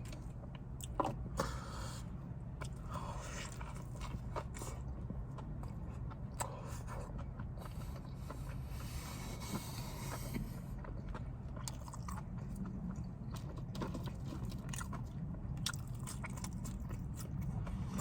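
Close-up mouth sounds of someone biting and chewing a sauced Chick-fil-A deluxe chicken sandwich: wet chewing with many small clicks and crunches, over a steady low hum.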